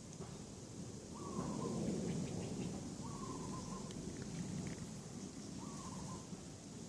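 A bird calling three times, each a short note that dips slightly in pitch, about two seconds apart, over a low rumble.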